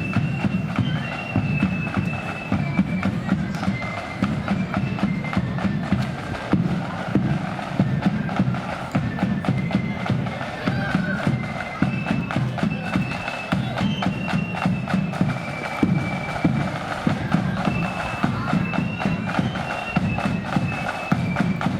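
Blood-and-thunder marching flute band playing a tune: many flutes in unison carry the melody over a rapid, continuous beat of snare drums and a heavy bass drum.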